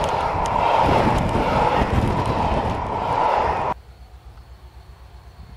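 Freight train wagons rolling past close by: a loud steady rumble and clatter of wheels on rail, with a steady ringing note running through it. The sound cuts off suddenly a little over halfway through, leaving only a faint low hum.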